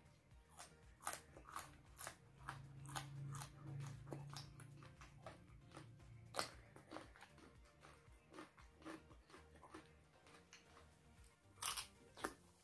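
Quiet close-up eating sounds: raw red chili peppers being chewed with small wet clicks, then a crisp bite into a fresh cucumber about six seconds in. A louder wet sucking burst comes near the end as a lime half is put to the mouth.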